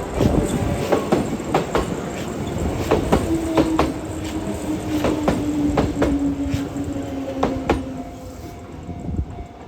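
Electric train rolling past at a level crossing, its wheels clacking irregularly over rail joints, with a low whine falling slightly in pitch from about three to eight seconds in. The sound fades near the end as the train moves away.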